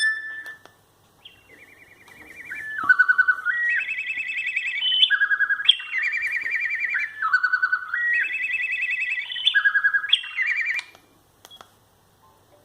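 Sagem myX5-2 mobile phone playing one of its built-in ringtones: a melody of fast-trilled electronic notes stepping up and down in pitch. The phrase plays about three times over, then stops.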